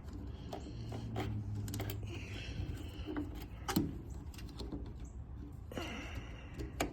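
Scattered light clicks and taps of multimeter test leads and hands working on a contactor inside an HVAC air handler, with a brief low hum about a second in.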